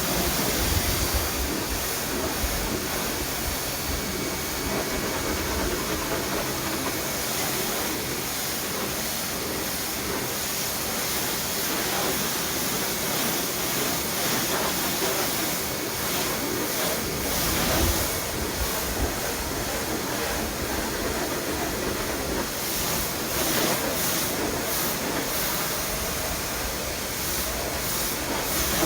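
Dewalt 2100 PSI electric pressure washer spraying through a 15-degree nozzle onto wooden deck boards: a steady, rushing hiss of high-pressure water that swells a little now and then as the spray moves.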